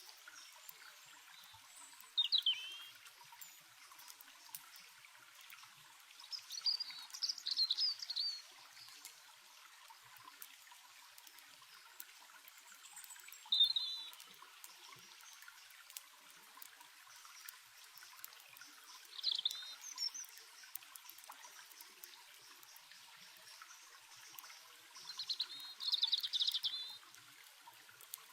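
Small songbird chirping in five short bouts a few seconds apart, over the steady trickle of a stream and faint crackles of a campfire.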